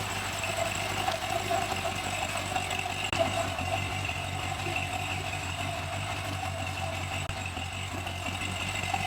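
Vehicle engine idling steadily, a constant low hum with a steady higher whine over it.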